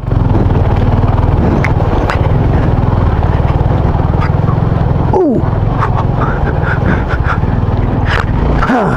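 Motorcycle engine running under way over a rough dirt road, with scattered knocks from the bumpy surface. Two quick drops in pitch come about five seconds in and near the end.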